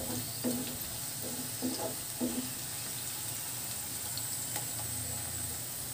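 Chopped onion, green chillies and whole cumin seeds sizzling in hot oil as a wooden spatula stirs them, scraping the pan a few times in the first two seconds.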